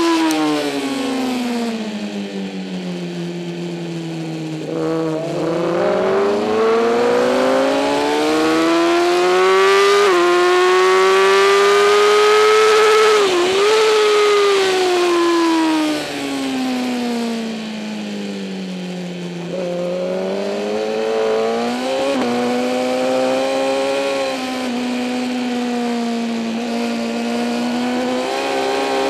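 2008 Kawasaki ZX-10R inline-four superbike engine under racing load, with wind rush. Engine speed falls for several seconds, climbs with quick gear changes, falls again for several seconds, then holds steady before climbing again near the end.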